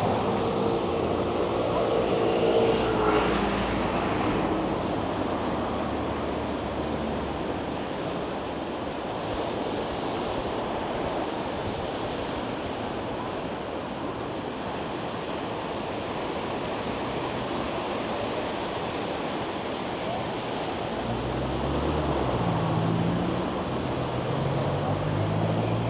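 Steady city traffic noise, with motor vehicles passing close by near the start and again near the end.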